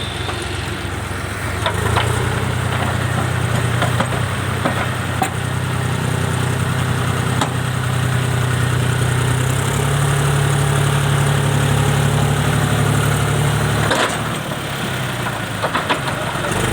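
Heavy diesel engine running and revving, its pitch stepping up about two seconds in and again near ten seconds, then dropping back around fourteen seconds. A few sharp knocks sound over it.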